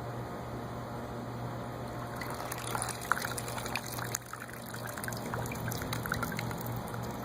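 Water pouring and trickling during a car wash, with small splashes and drips scattered through the second half.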